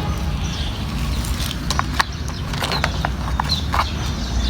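Small RC truck's motor and gears running with a steady low hum, with scattered clicks and knocks in the middle. A bird chirps briefly near the end.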